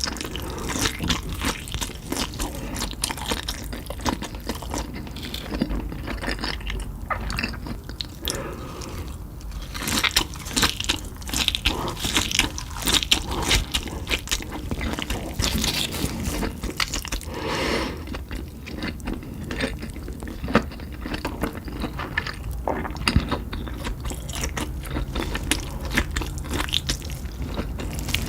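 Close-miked crunching and chewing of Cheetos-crusted meat fingers, with repeated crisp bites and crackles throughout.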